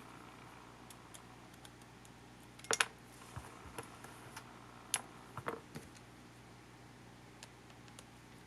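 Irregular small clicks and taps of hand tools against the small parts of a camcorder being taken apart. The loudest is a quick double click about a third of the way in, with a few more clicks just past the middle.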